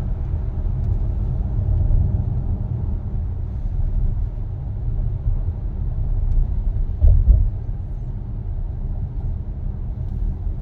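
Low, steady rumble of road and engine noise heard inside the cabin of a SsangYong Torres on the move, with a brief louder rumble about seven seconds in.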